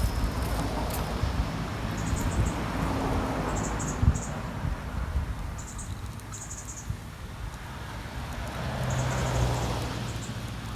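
Short groups of high-pitched chirps from an insect or bird, repeating every second or two, over a steady low rumble of traffic. The rumble swells as a vehicle passes about nine seconds in.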